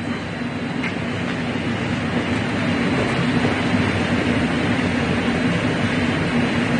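A steady mechanical hum with a low droning tone, slowly growing a little louder.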